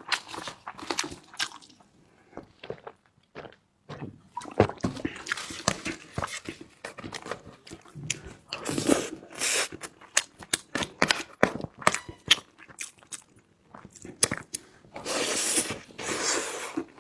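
Close-miked eating: chewing and biting with many short wet clicks and smacks. There is a quieter pause about two to four seconds in, and two longer, denser noisy stretches, one about nine seconds in and one near the end.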